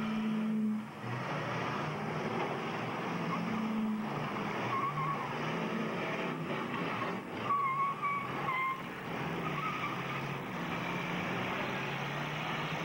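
Several demolition derby cars' engines running and revving together as the cars ram one another. A high wavering squeal, typical of spinning tyres, comes and goes several times about halfway through, with an occasional crunch of impact.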